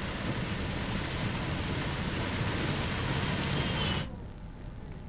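Heavy rain pelting a moving car's windshield and body, heard from inside the car along with the car's road noise, as a dense steady hiss. It cuts off abruptly about four seconds in, leaving a faint low hum.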